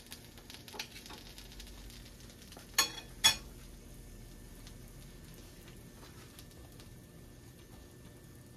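Aloo paratha frying in ghee on a tawa: a faint steady sizzle with fine crackling ticks. Two sharp utensil clinks, about half a second apart, come about three seconds in.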